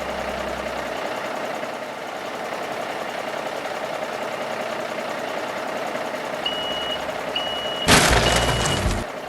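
Vehicle engine running steadily, then a reversing alarm gives three short high beeps about a second apart near the end, with a loud burst of noise under the last beep.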